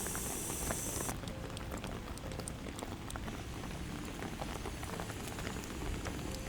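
Heavy rain pattering steadily, many separate drops ticking over a low rumble. A high hiss stops suddenly about a second in.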